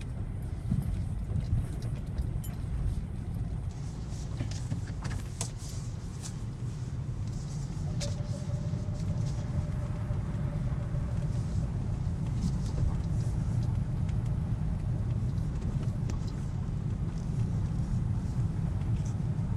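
Hyundai Creta 4WD driving, heard from inside the cabin: steady engine and road rumble, with scattered light clicks and a faint thin squeal held for about three seconds near the middle.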